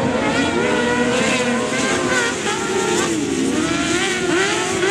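Several kart cross racing engines revving hard together, their pitches rising and falling over one another as the karts accelerate and shift through a race.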